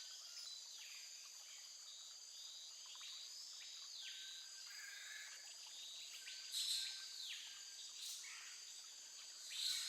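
Outdoor birdsong over a steady high insect chorus. A bird repeats a short call that rises and falls, about once every three seconds.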